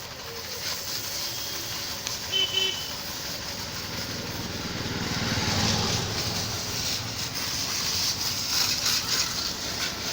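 Road traffic, with a motor vehicle passing close and loudest about halfway through; a short high double beep sounds about two seconds in.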